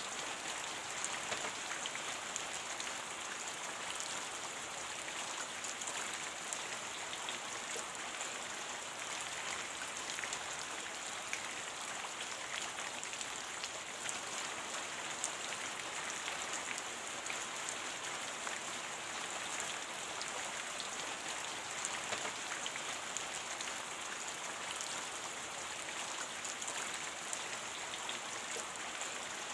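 Steady rain: an even hiss with many small separate drop ticks.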